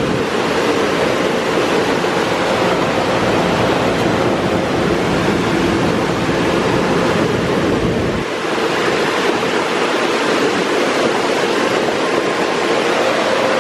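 High-pressure water spray from a Mark VII touchless car wash hitting the car, heard from inside the cabin as a loud, steady rushing hiss with a faint steady hum underneath. The low rumble drops away about eight seconds in.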